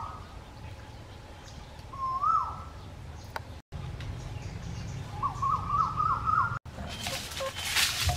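A bird calling: two short whistled calls that rise and fall, then a quick run of warbling up-and-down notes. Near the end, clicking and rustling of lotus seeds handled in a plastic colander.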